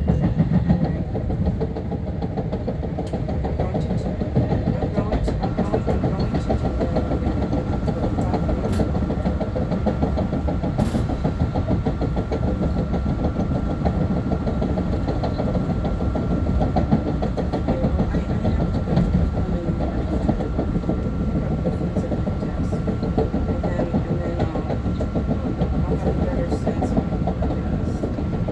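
Long Island Rail Road M3 electric multiple-unit train running, heard from inside the car: a steady rumble of wheels and running gear on the track, with a steady high whine coming in about five seconds in.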